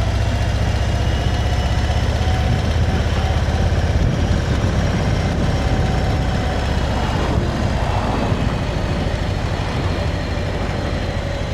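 Motorcycle engine running with a steady, pulsing low rumble as the bike is ridden, heard close up from the rider's camera.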